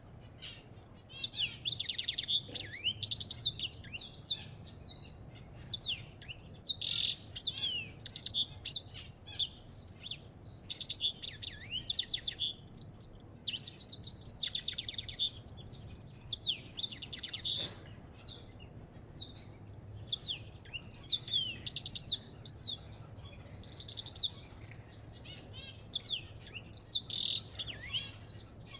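A small finch, the African goldfinch, singing a long, fast twittering song of high chirps, rapid trills and quick falling notes, with only short pauses. A faint low hum runs underneath.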